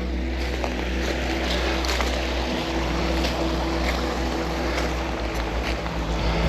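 Steady rushing of a rain-swollen creek, with a low rumble of wind on the microphone growing in the last second or so.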